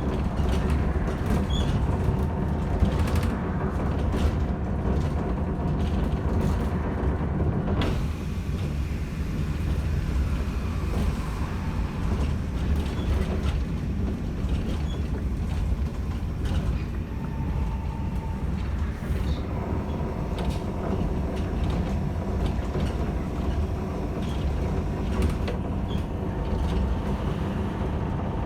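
Inside a moving Bogdan T90110 trolleybus: a steady low rumble of the ride with a faint electric motor whine, and the body creaking and rattling.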